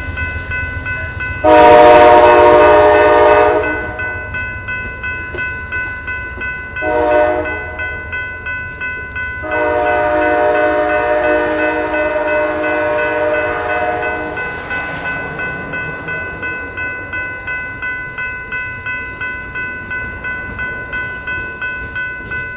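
Amtrak train horn sounding a grade-crossing signal: a long blast, a short one about seven seconds in, then a long blast of about five seconds. A bell rings steadily about twice a second throughout, over the low rumble of the passing train.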